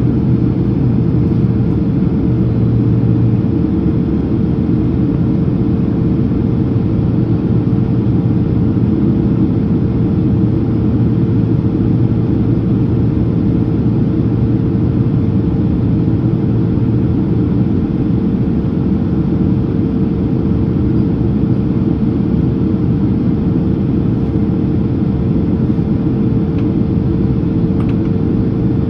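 Steady cabin noise inside a Boeing 767-300ER on its approach: a constant rumble of engines and airflow with a steady hum running through it.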